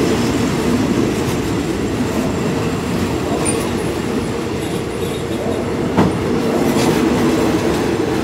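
Passenger coaches of a train rolling slowly past on the adjacent track, with wheels clacking over the rails, some wheel squeal and a steady rumble. A single sharp clack about six seconds in.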